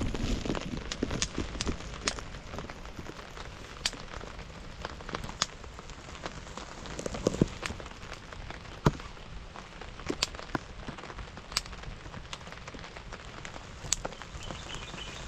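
Rain falling steadily, with scattered sharp taps of single drops.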